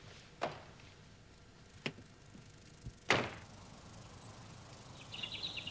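A few soft, scattered thumps or rustles, the loudest about three seconds in, then a brief high, rapid chirping near the end.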